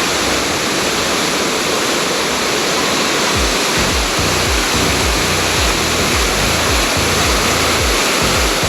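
Waterfall rushing steadily and loudly over rocks close by. About three and a half seconds in, irregular low thumps begin under the rush.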